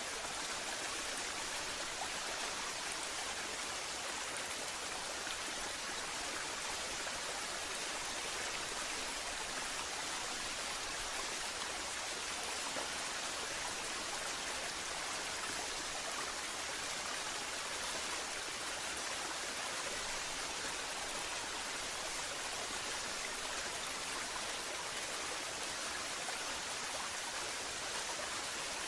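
Waterfall water falling and rushing: a steady, unbroken hiss.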